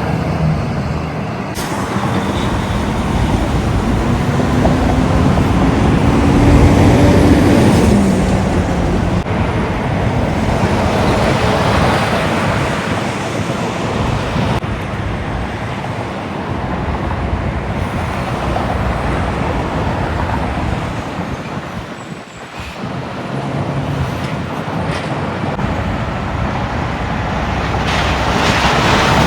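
Road traffic with semi-trucks passing close by: steady tyre and engine noise that swells and fades as vehicles go past. A truck engine's drone rises in pitch and is loudest several seconds in, and the noise dips briefly about two-thirds of the way through.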